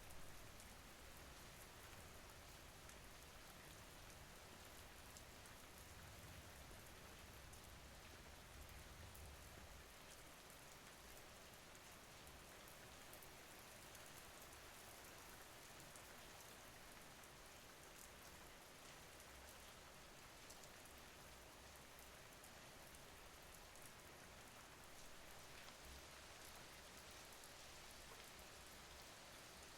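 Faint, steady rain falling: an even hiss of rain on a surface with no distinct drops standing out.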